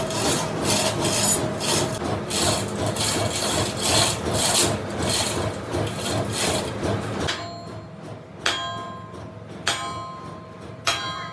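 Steady metal-on-metal rasping and scraping as a compressor crankshaft is machined, stopping abruptly a little past halfway. Three sharp metallic clinks follow, each ringing briefly.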